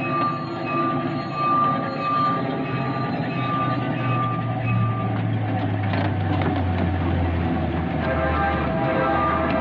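Miniature railway train pulling away, its locomotive's engine running steadily with the train rolling on the track. A repeated ringing tone, about two a second, sounds through the first half and then stops.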